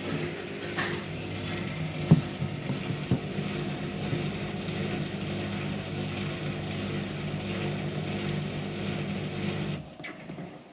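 Hotpoint ActiveCare washing machine's drain pump running with a steady hum as it pumps the water out, with a few sharp clicks in the first three seconds. The hum cuts off suddenly near the end.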